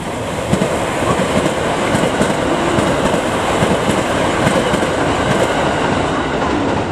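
JR West 289 series limited-express electric train passing through at speed, its wheels clattering rapidly over rail joints and turnouts under a steady rumble.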